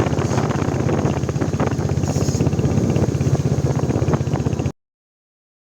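Royal Enfield Hunter 350's single-cylinder engine running under way, a steady rapid pulsing exhaust beat with some wind on the microphone. The sound cuts off suddenly near the end.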